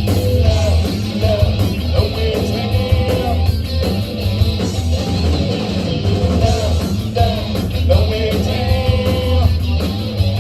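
Rock band playing live: electric guitar, bass guitar and drums, with singing over them.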